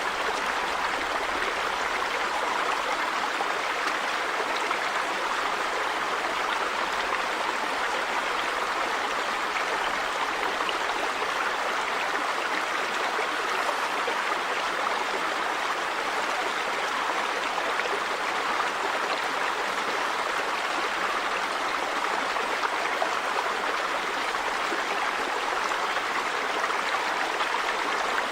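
River water running over rocks, a steady rushing and babbling.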